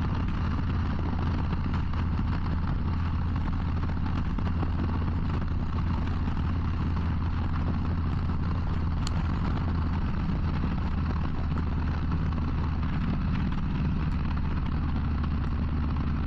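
Harley-Davidson Low Rider ST's Milwaukee-Eight 117 V-twin running at a steady cruise, a constant low drone with road and wind rush, unchanging in level.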